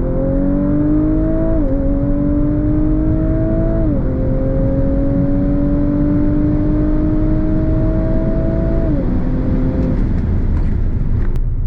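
2019 Audi RS5's twin-turbo V6, on a Stage 1 tune, pulling at full throttle through the gears. The engine note climbs steadily in each gear and drops at quick upshifts about two, four and nine seconds in, then falls away as the throttle is lifted near the end, over steady road rumble.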